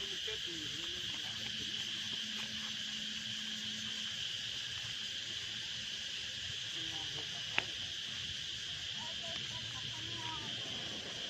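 Steady high-pitched chorus of insects calling from the trees, a continuous even hiss with no breaks. One sharp click about two-thirds of the way through, and faint voices in the background.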